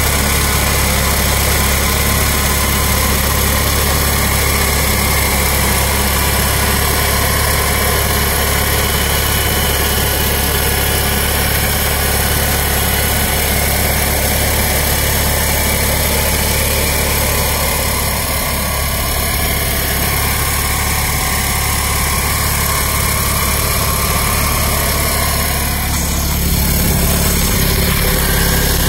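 Fiat 500L's small air-cooled twin-cylinder engine idling steadily, its note shifting slightly near the end.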